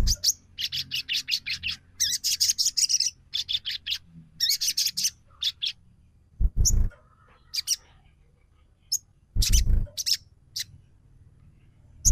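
Sogon trotol bird calling in quick bursts of sharp, high chirps, several notes a second, with pauses between the bursts. Two brief low thuds come in, about six and nine seconds in.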